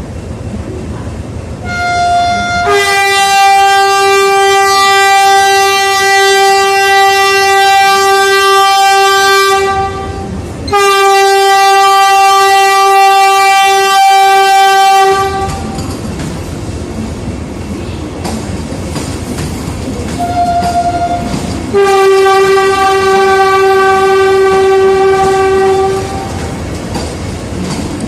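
Vande Bharat Express train horn sounding three long steady blasts, the first the longest at about seven seconds, each opened by a brief higher toot. The train's wheels clatter and rumble on the rails between the blasts.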